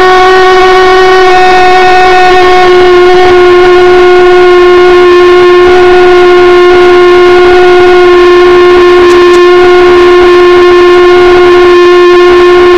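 Propane-fuelled mini thermojet (a valveless pulsejet) running continuously: a very loud, steady drone held at one pitch.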